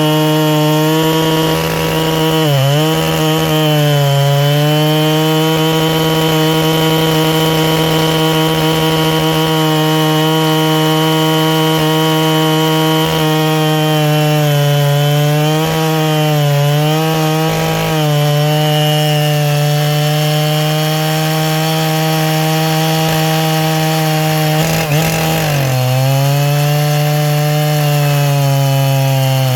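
Husqvarna 3120XP two-stroke chainsaw, ported and carburetted slightly rich, cutting through a log at full throttle. Its high steady engine note sags briefly several times as the chain loads up, then climbs back each time.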